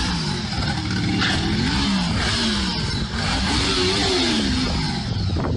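An engine revving up and down over and over, its pitch rising and falling every second or so.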